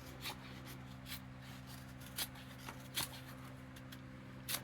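A folding liner-lock knife blade cutting into a piece of wood, about five short, sharp scraping strokes spaced roughly a second apart, over a steady low hum.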